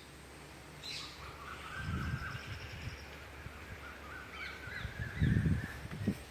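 Birds calling, with two short low thumps, the second one about five seconds in and the loudest.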